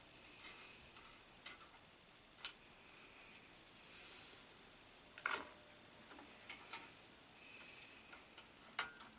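Small hand-work noises: a few sharp clicks and taps of metal parts, with short stretches of scraping and rustling between them. These are the sounds of fitting screws and fixings to a bench grinder's base cover.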